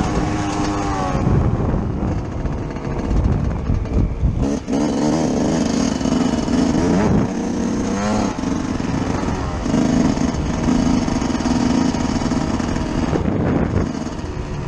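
Yamaha YZ125 single-cylinder two-stroke motocross engine, heard on board, revving and easing off repeatedly, its pitch climbing and dropping with the throttle, over a steady hiss of wind and track noise.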